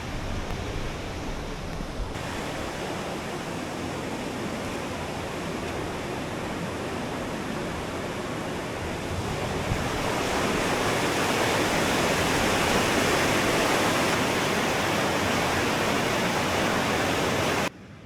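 Waterfall rushing steadily, growing louder about halfway through and cutting off suddenly near the end.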